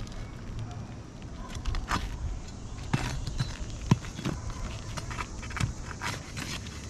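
Scattered taps, clicks and scrapes of hand work on asphalt roof shingles as nails are pried loose and shingles worked out, with two sharper knocks about three and four seconds in.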